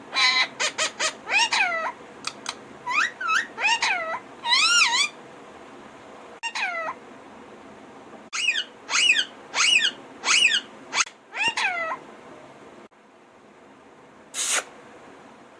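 Alexandrine parrot vocalising in a series of short calls that swoop up and down in pitch, in bursts with brief pauses, plus one short harsh screech near the end.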